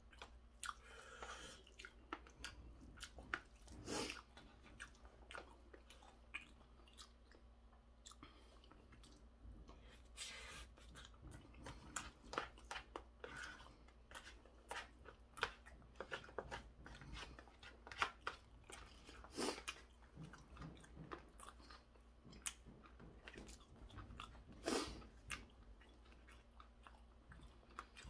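Quiet close-up chewing of stir-fried pork cartilage, with irregular sharp crunches as the gristle is bitten through.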